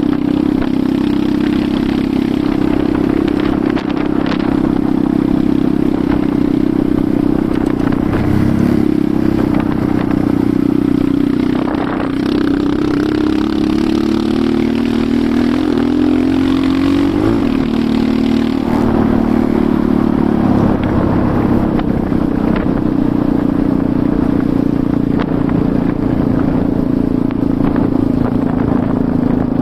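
Enduro motorcycle engine running while riding, its note mostly steady, then dipping and rising several times in the middle as the throttle changes, with some clatter.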